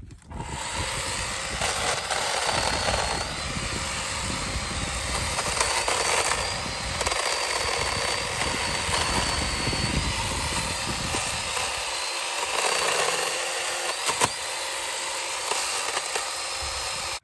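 Hart chainsaw running and cutting cedar limbs: a steady, high motor whine that wavers as the chain loads in the wood, stopping suddenly at the end.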